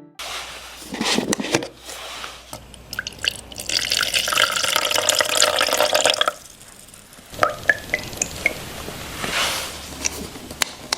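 Water running from a tap into a container for about two seconds, with shorter trickles and splashes before and after and light clicks and knocks of handling.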